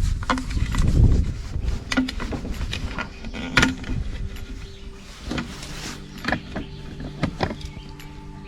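Handling noise of small parts being worked by hand: scattered clicks and knocks of fuel line and plastic trimmer parts, with a low rumble at the start. A steady low hum comes in about five seconds in.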